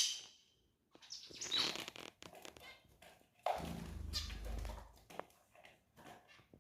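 Canaries moving about: scattered short fluttering and scuffling sounds, with a low rumble for about a second and a half around the middle.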